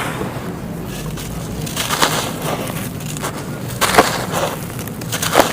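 Dry sandy clay crunching and crumbling as it is broken, with a few separate sharp cracks, the clearest about two, four and five and a half seconds in.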